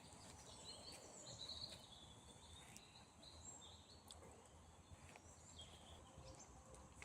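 Near-silent night ambience: faint short chirping calls of small animals come and go over a thin, steady high whine, with a few faint ticks.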